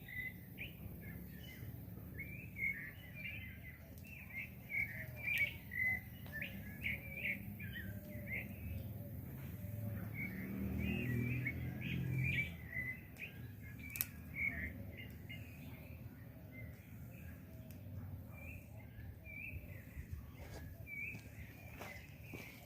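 Many small birds chirping continuously, with a low murmur swelling about halfway through and a few sharp clicks.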